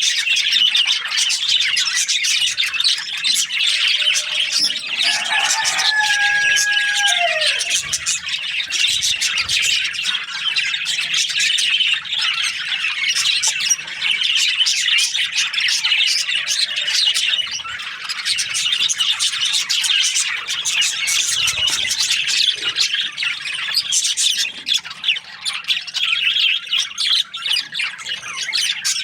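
A flock of budgerigars chattering and chirping without a break, many rapid high-pitched calls overlapping. About five seconds in, one lower, longer call stands out and falls in pitch at its end.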